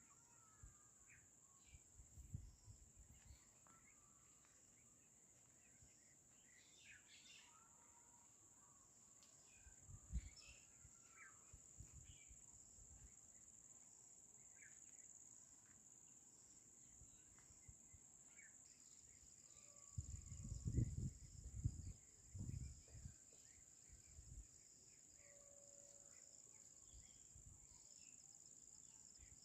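Faint rural ambience: a steady high-pitched insect drone with scattered faint bird chirps. A few low rumbles break in, the loudest cluster about twenty seconds in.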